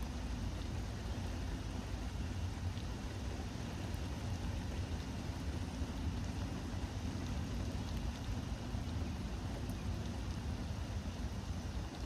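Steady rain hiss with a low rumble of wind buffeting the phone microphone, and a few faint ticks of drops.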